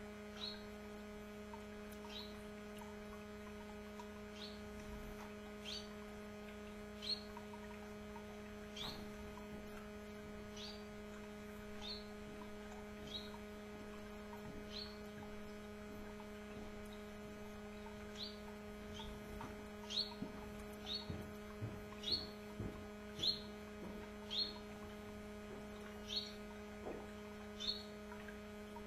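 Canaries giving short, high single chirps, each a quick downward sweep, one every second or two and more often in the second half, over a steady electrical hum.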